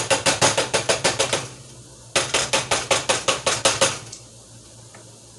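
A kitchen utensil stirring briskly against a cooking vessel in fast, even strokes, about seven a second, in two runs with a short break about a second and a half in. The strokes stop about four seconds in, leaving a low steady hum.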